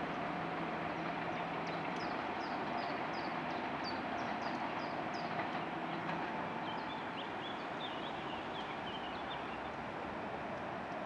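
German ICE3 high-speed electric train running away along the track, its steady rumble slowly fading. Small birds chirp repeatedly over it in short, quick falling notes.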